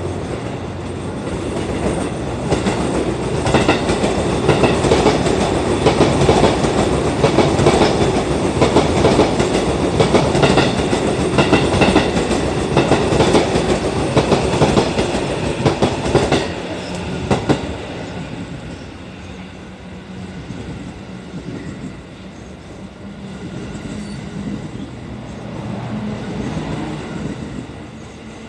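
E26-series Cassiopeia sleeper carriages rolling past as the train pulls out of the station, their wheels knocking over rail joints. The sound is loud for the first half, then quieter and steadier after about sixteen seconds.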